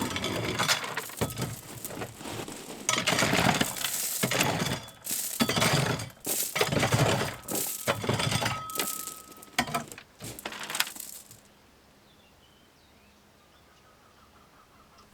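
Rocks and gravel clattering and crunching in a run of irregular bursts, which stop about eleven seconds in; after that the sound falls away to a faint background.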